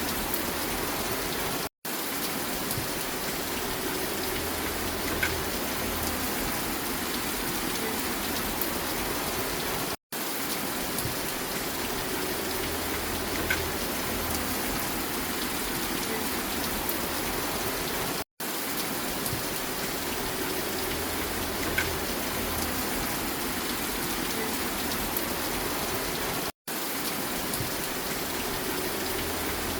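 Steady, even rain noise with no thunder. It drops out to silence for a split second four times, about every eight seconds: a short rain recording looped.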